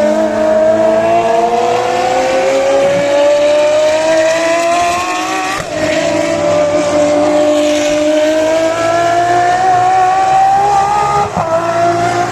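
Ferrari FXX's 6.3-litre V12 engine under full throttle, its pitch climbing steadily through a long gear. It shifts up about halfway through and again near the end, then climbs again after each shift.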